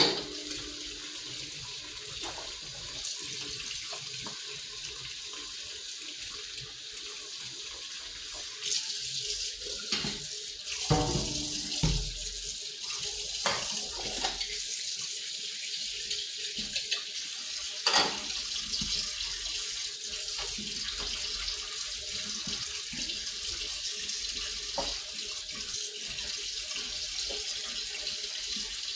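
Tap water running steadily into a sink, with a few knocks and clatters of things being handled under it in the middle and a sharp click a little past halfway.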